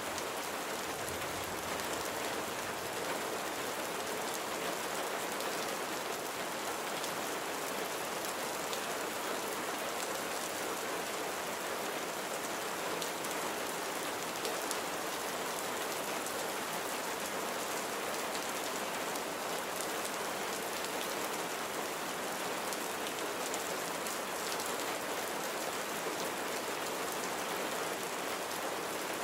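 Steady rain falling, a continuous even hiss of drops with fine patter on surfaces.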